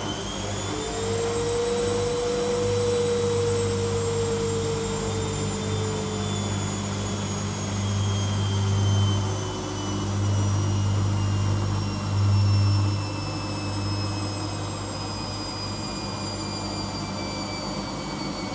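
Washing machine on its spin cycle: a high motor whine, its pitch slowly falling, over a deep hum that swells and fades.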